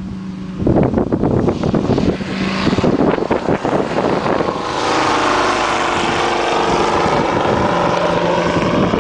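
British Aircraft Swallow's propeller engine running. An uneven, gusty rumble for the first few seconds gives way about five seconds in to a steady drone.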